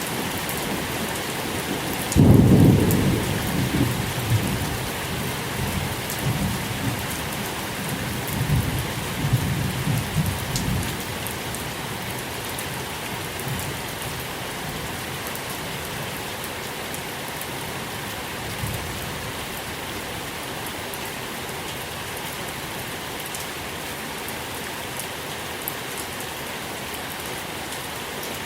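Steady rain falling, with a roll of thunder breaking about two seconds in and rumbling on in waves for several seconds before fading, leaving only the rain.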